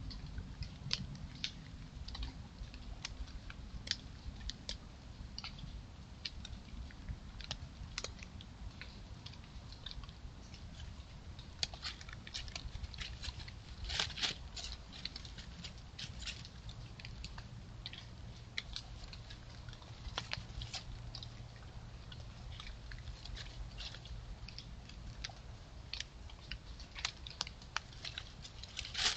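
Irregular small crackling clicks and rustles close to a trail camera's microphone, typical of an animal foraging, over a low steady hum.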